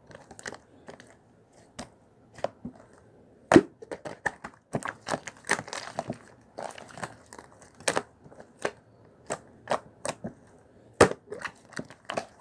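Toy slime being squeezed and pressed by hand, giving irregular sharp pops and clicks as trapped air bursts, several a second, with the loudest pops about three and a half seconds in and near the end.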